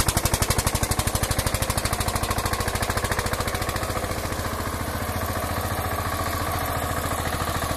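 Eicher tractor's diesel engine running under heavy load while pulling at full strength, with a rapid, even beat. It gets a little quieter about halfway through.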